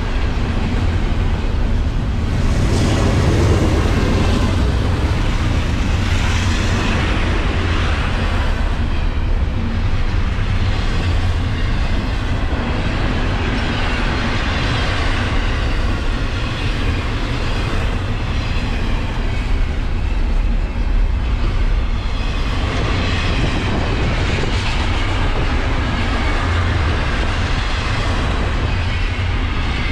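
Canadian National intermodal freight train rolling past, a loud, steady rumble of train wheels on rail.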